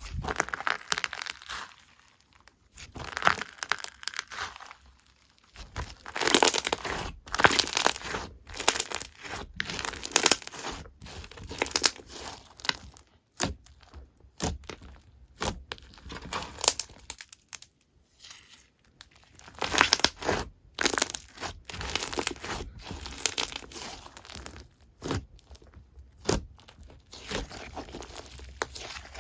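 Slime being squished and pressed by hand, making irregular bursts of crackling clicks and pops with short pauses between them.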